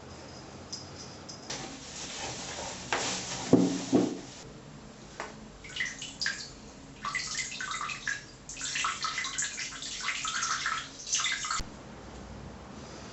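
Water running and splashing in irregular bursts, each a second or so long, with a knock about three and a half seconds in.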